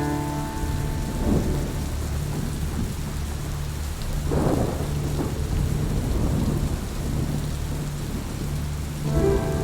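Steady rain falling, over a continuous low rumble of thunder. The thunder swells briefly about four seconds in. A soft held musical chord fades out in the first second and enters again near the end.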